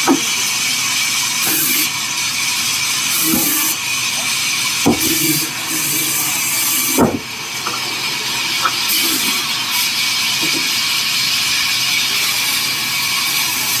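Sawmill saw machine running steadily through wood, a loud, even hiss-like noise, with a few sharp knocks of timber, the loudest about seven seconds in.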